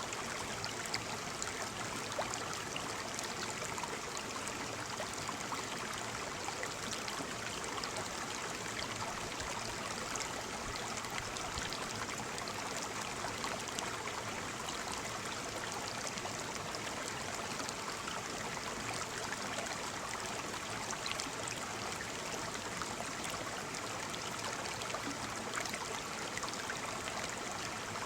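Waterfall: water falling and splashing in a steady, even rush with small scattered splashes.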